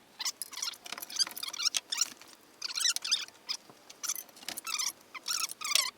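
Repeated high-pitched metallic squeaks and squeals, several short ones in a row with brief gaps, as a Saab engine hanging on a lifting chain is lowered and shifted into the engine bay.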